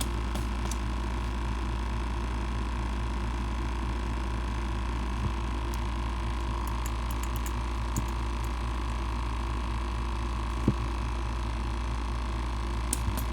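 Small bait-bucket aerator air pump running steadily, pressurising a nitro fuel tank for an air-leak test, with a low even drone. A few light clicks and taps come over it, the sharpest about two-thirds of the way in.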